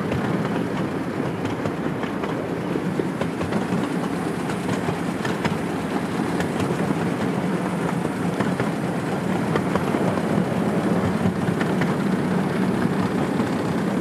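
Ride-on miniature railroad train running steadily, heard from on board: a continuous rumble with faint clicking of wheels on the track.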